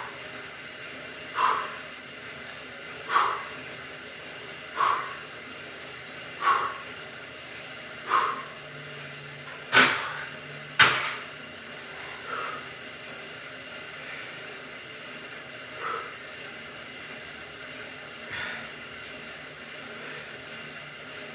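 A man's forceful breaths, six in a steady rhythm about one and a half seconds apart, in time with lifting reps on an exercise bike, then two sharp knocks about a second apart, followed by a few softer breaths over a steady hiss.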